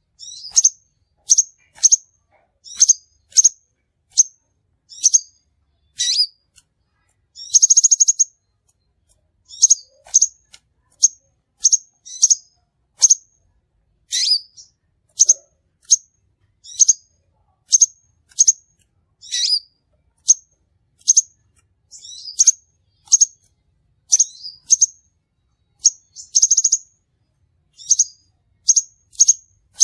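Crimson sunbird calling: short, high, sharp chips repeated about every half second to a second, with a brief buzzy trill about eight seconds in and another some eighteen seconds later.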